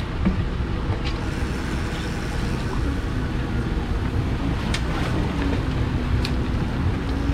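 Steady rumble of a fishing boat at sea with wind on the microphone, broken by a few sharp clicks. A steady hum joins about five seconds in.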